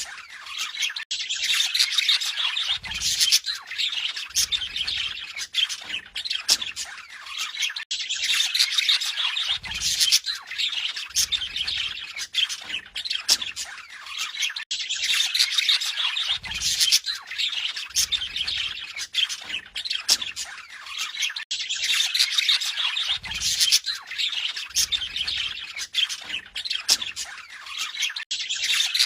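Budgerigars chattering and warbling without a break, a dense mix of squawks and chirps, the same stretch of song repeating about every seven seconds.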